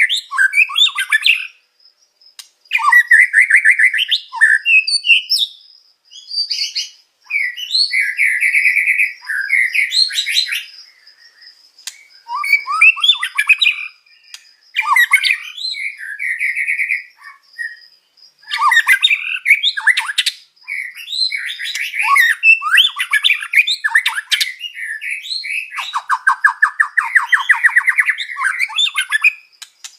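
White-rumped shama (murai batu) singing a varied song of short phrases and rapid trills with brief pauses between them, with filler phrases in the style of other songbirds such as the canary worked in. A faint steady high tone runs behind.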